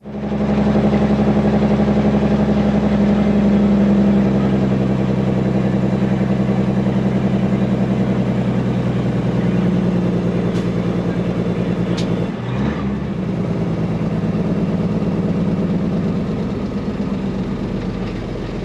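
Custom Peterbilt semi truck's diesel engine running steadily under way. There are two sharp clicks a little past the middle, then a brief dip in the engine note, a gear change on its 18-speed transmission.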